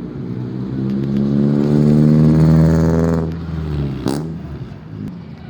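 A car's engine accelerating as it drives past, growing louder to a peak about halfway through, then dropping in pitch and fading as it moves away. A short sharp noise comes about four seconds in.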